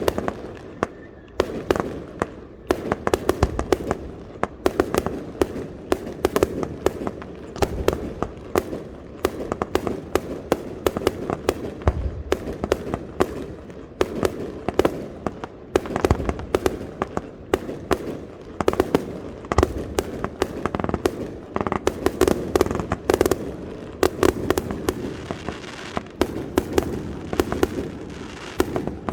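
Fireworks display: a dense, unbroken series of sharp bangs and shell bursts, several a second, over a continuous rumble.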